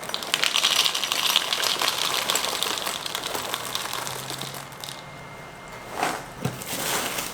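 Plastic cereal bag crinkling and rustling as it is pulled and worked open. The bag is hard to open. A dense run of crackles lasts about four seconds, then two shorter rustles come near the end.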